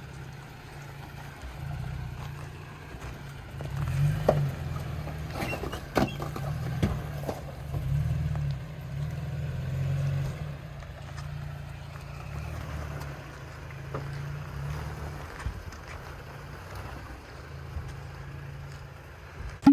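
Toyota Tacoma pickup's engine running at low revs as it crawls over an off-road obstacle, swelling a little as it pulls. A few sharp knocks and clicks come between about four and seven seconds in.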